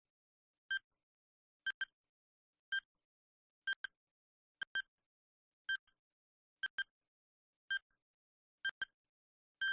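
Quiz countdown timer sound effect: short electronic beeps, each often a quick double pulse, about one per second while the answer time runs down. A longer beep starts at the very end as the countdown finishes.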